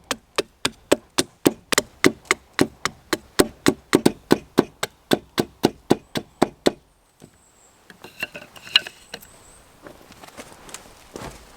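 A hand tool striking wood in a fast, even rhythm of about four blows a second, stopping about two-thirds of the way through; scattered lighter knocks and clicks follow.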